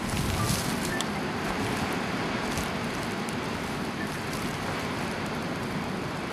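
Blizzard wind rushing steadily over the microphone, with a few short crackles or knocks in the first few seconds.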